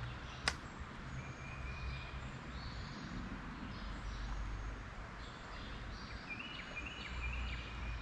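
Birds calling over a steady background hiss, with one sharp click about half a second in and a quick run of short chirps near the end.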